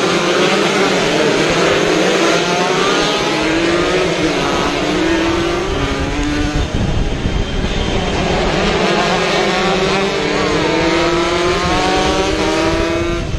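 Two-stroke racing motorcycles accelerating, their engines rising in pitch through the gears, with more than one bike heard at once. The rise comes in two waves, one early and one near the end.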